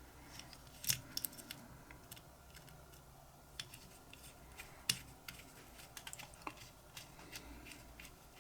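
Small metal lighter parts being handled with tweezers: faint, irregular clicks and taps, the sharpest about a second in and near five seconds.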